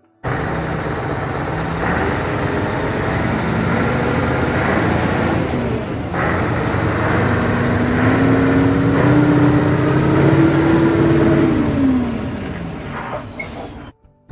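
1992 Scania 143M truck's V8 diesel engine running, its pitch climbing steadily over several seconds as it is revved up, then falling back near the end.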